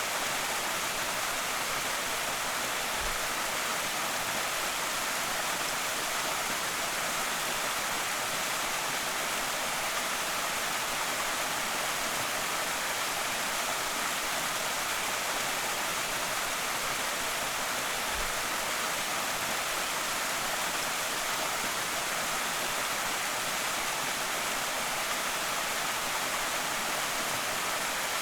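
Creek waterfall pouring steadily: an even, unbroken rush of falling water, mostly a bright hiss.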